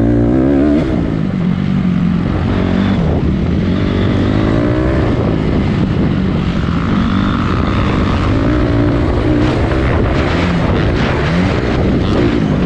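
Honda CRF250 dirt bike's four-stroke single-cylinder engine running under load while ridden, its revs rising and falling continually.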